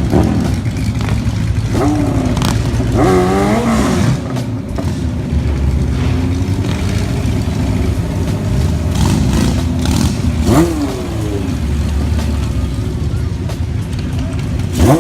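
Vehicle engines running with a steady low rumble, blipped in quick revs that rise and fall in pitch about three seconds in, at about ten seconds and again near the end.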